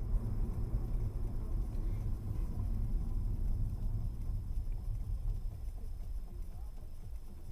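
Steady low rumble of a moving vehicle, easing slightly in the second half.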